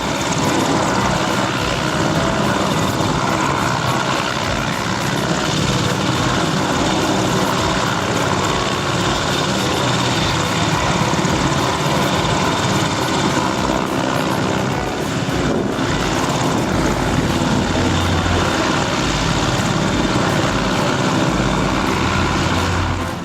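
Aircraft engine running close by, a loud steady noise that cuts off suddenly at the very end.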